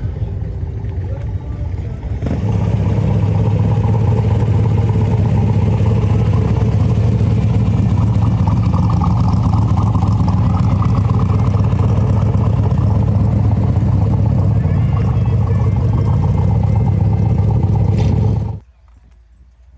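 A car engine running close by, loud and steady with a deep low hum; it gets louder about two seconds in and cuts off suddenly near the end.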